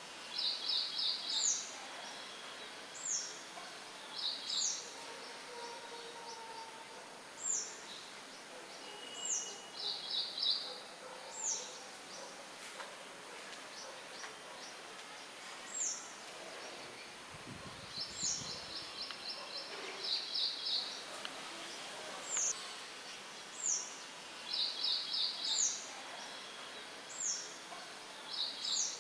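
Songbirds singing over a steady hiss of light wind: high, quick downward-slurred calls repeat every second or two, mixed with short bursts of rapid chirps. A brief low rumble comes about two-thirds of the way through.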